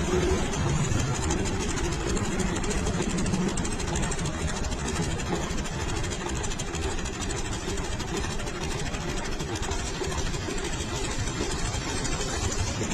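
Fiat farm tractor's diesel engine idling steadily.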